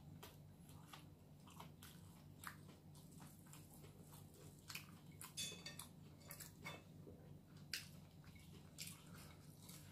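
Faint mouth sounds of someone eating crispy fried chicken with rice by hand: quiet chewing with scattered small crunches and clicks, over a low steady hum.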